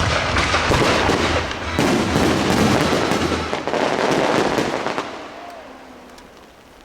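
Display fireworks going off in a dense barrage of bangs and crackling, then dying away over the last couple of seconds.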